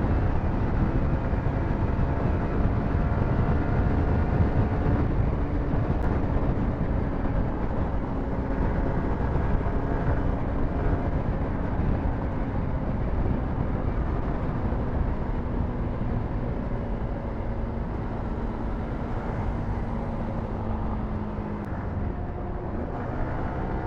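Yamaha R15 V4 motorcycle's 155 cc single-cylinder engine running at steady highway speed, its pitch sinking slowly, under heavy wind rumble on the microphone.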